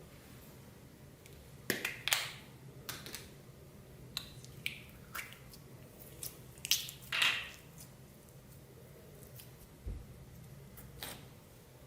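Clear slime being squeezed and worked by hand, giving irregular sticky clicks and short squelchy crackles, loudest about two seconds in and again around seven seconds.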